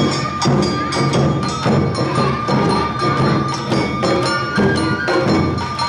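Awa odori narimono band playing: drums and a small kane gong strike a steady beat, about two strokes a second, under a bamboo flute holding a long high note.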